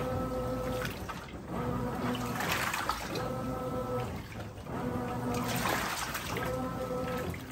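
Brastemp 17 kg top-loading washing machine agitating a load: the motor hums in strokes about every second and a half, each broken by a surge of water sloshing as the agitator reverses.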